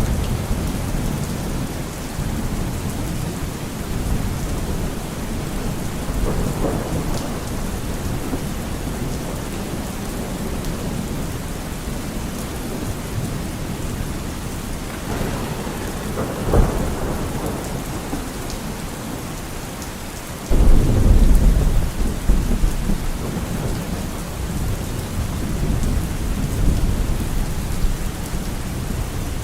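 Steady rain with rolling thunder. A sharp thunder crack comes a little past halfway, and a few seconds later a loud, low rumble starts suddenly and fades out over about two seconds.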